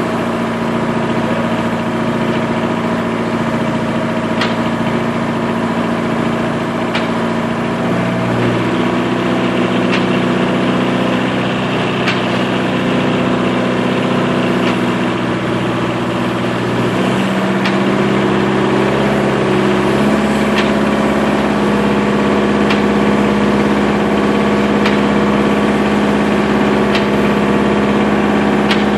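Sawmill machinery running: a steady mechanical hum whose pitch steps up a few times, with a faint click about every two and a half seconds.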